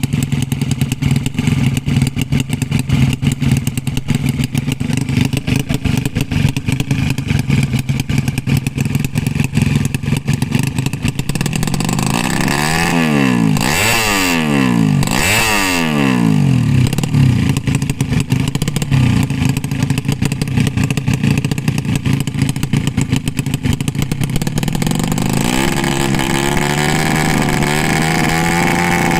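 Loud open-exhaust racing motorcycle engines running and revving. A couple of bikes pass close by about halfway through, and near the end another engine note rises and wavers.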